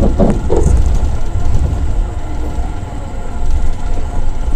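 Pakistan Railways passenger train running along the track, heard from an open coach window: a loud, steady low rumble of wheels on rails, with a few short clatters near the start.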